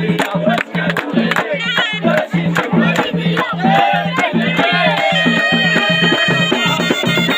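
Moroccan folk music on the ghaita, a loud double-reed shawm, over a steady drum beat with sharp percussion strokes. About five seconds in, the ghaita settles onto a long held note.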